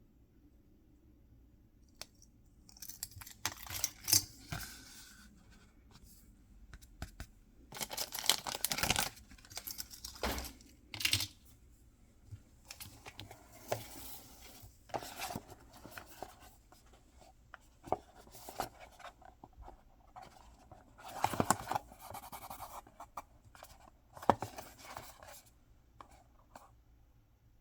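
Packaging being torn open and handled during an unboxing, in short irregular rips and rustles with sharp clicks and taps between them.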